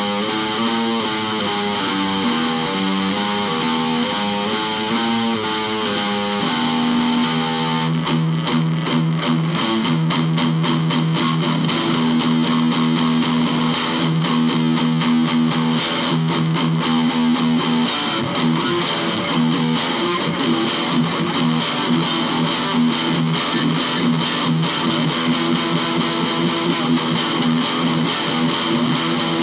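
Electric guitar playing improvised music, with distortion: moving single notes at first, then, from about seven seconds in, a held chord with fast strumming or tremolo picking.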